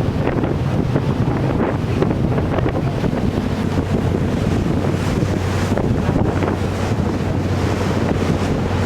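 Wind buffeting the microphone over a steady low drone of a ship's engine, with water noise underneath.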